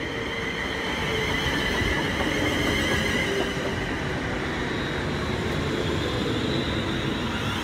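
London Midland Class 350 Desiro electric multiple unit running into the platform, its electric motor whine made of several steady tones that fall slowly in pitch as it slows, over the rumble of the wheels on the rails.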